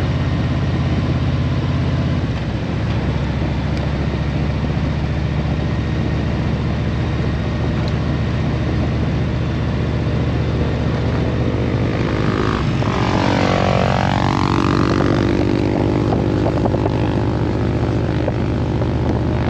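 A vehicle engine running steadily. About twelve seconds in, a second sound drops in pitch and climbs back up over about three seconds.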